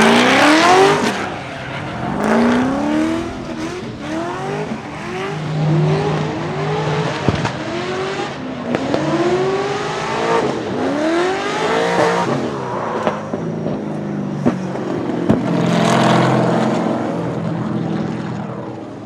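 LS7 V8 of a drifting BMW E30 blipping the throttle over and over, in short rising revs about once a second, with tyre squeal and a few sharp exhaust pops. Loudest at the very start, fading away near the end.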